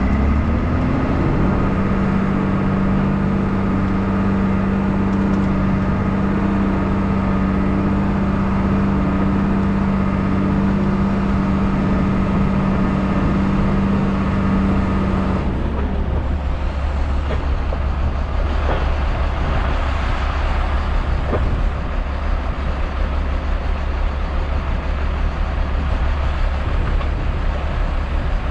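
Log truck's diesel engine rising to a steady fast idle, then dropping back to a low idle about halfway through. A few faint knocks sound over the idle shortly after the drop.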